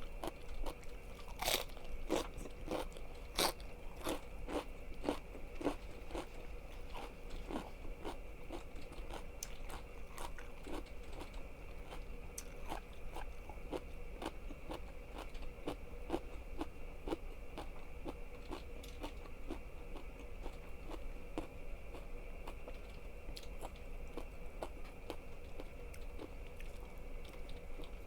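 Close-miked bites and chewing of crunchy food. A dense run of sharp crunches in the first few seconds thins to steady chewing crunches.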